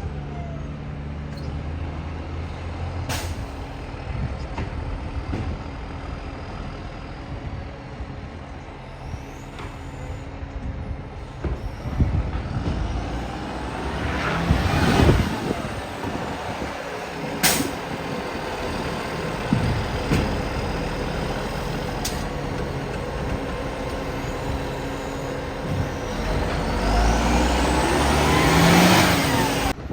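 Diesel garbage truck with an exhaust leak running, its engine revving up twice, once about halfway through and again near the end. Three sharp air-brake hisses cut in, one a few seconds in and two more in the second half.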